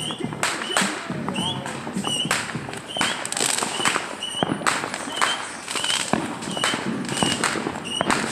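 Small consumer fireworks going off: a continuous run of sharp, irregular pops and crackles.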